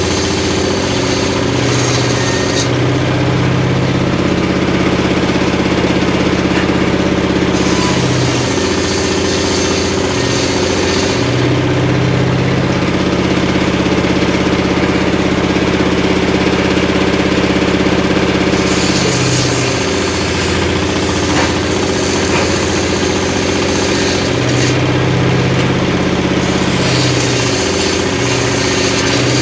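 Engine driving a home-built circular saw rig runs steadily while the blade rips short pieces of wood in repeated cuts. The engine note dips briefly several times as the cuts load it, and a hissing cutting noise comes and goes with each pass.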